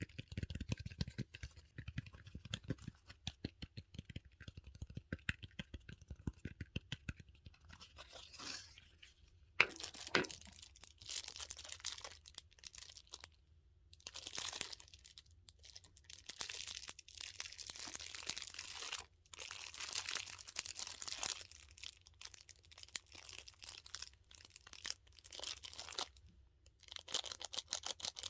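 Close-up handling of a dumpling-shaped squishy toy and its plastic packaging. For the first several seconds there is rapid tapping and scratching. From about nine seconds in, the plastic wrap crinkles and crackles in repeated handfuls with short pauses between them.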